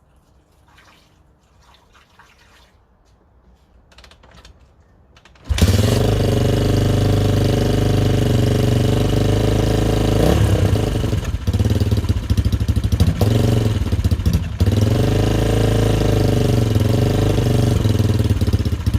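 Honda XR400 air-cooled four-stroke single-cylinder dirt bike engine starting about five and a half seconds in and running, its note sagging briefly a few times. It is being tested with a smaller 152 main jet and still wants to stall when given gas, which the owner puts down to a rich mixture and valve adjustment.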